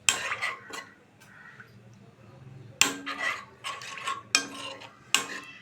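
A spoon clinking and scraping against a kadhai as chicken is mixed with sauces. The strikes are scattered, with a quiet gap of about two seconds in the middle.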